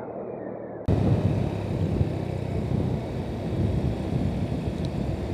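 Wind rumble and motorcycle road noise at about 70 km/h, picked up by a helmet-mounted action camera's microphone. About a second in the sound jumps abruptly from a muffled, thinner recording to a louder, fuller low rumble.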